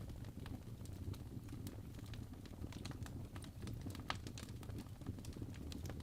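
Fireplace crackling: irregular sharp pops and snaps over a low, steady rumble of the burning fire, with one louder snap about four seconds in.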